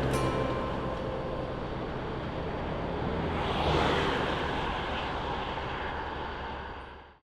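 A vehicle engine running steadily on the road, with a swell in the noise about three and a half seconds in, fading out near the end.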